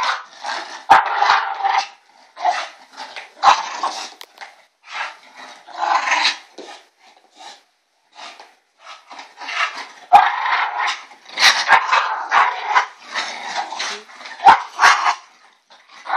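An Olde English Bulldogge making a string of crazy, ewok-like vocal noises in short bursts, with a quiet pause of a couple of seconds about halfway through.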